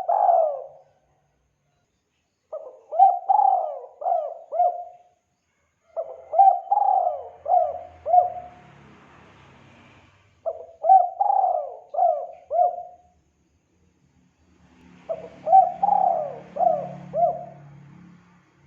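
Spotted dove (tekukur) cooing as a lure call: four phrases of several quick coos each, a second or two apart, with the tail of another phrase at the very start.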